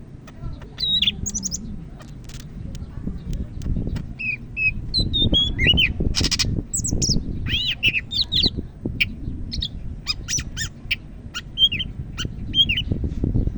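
A cucak ijo (green leafbird) singing a rapid, varied song of short whistled notes, up-and-down pitch glides and sharp chirps and clicks, over a steady low background rumble.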